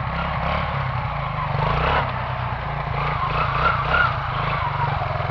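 Quad (ATV) engine running with a low, pulsing exhaust note, over a steady hiss.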